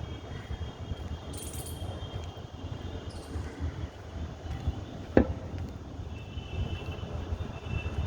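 Outdoor ambience with faint, steady high-pitched insect chirring over a low rumble. A single sharp click about five seconds in.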